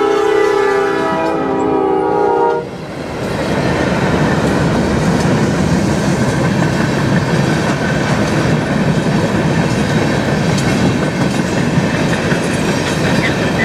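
Diesel locomotive air horn sounding a steady chord that cuts off suddenly under three seconds in, followed by the rumble and clatter of the train rolling past. The lead unit is GTW SD40-3 5945 on CN train 519.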